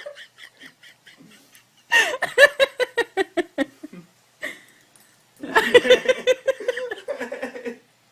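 Laughter in quick rhythmic bursts, in two long fits, the second starting about five and a half seconds in.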